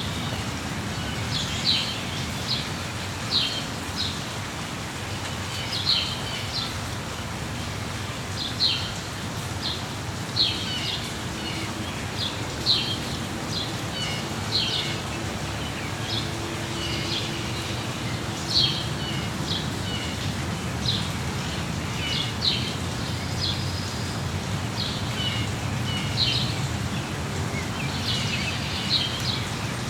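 Birds chirping in short, sharp calls, one every second or two, over the steady hiss of rain.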